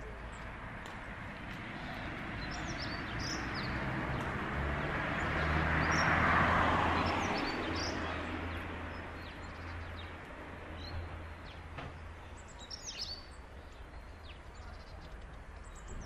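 Short, high, thin calls of long-tailed tits, a few near the start and a cluster near the end. Under them a broad rumble swells to a peak about six seconds in and fades away by about ten seconds.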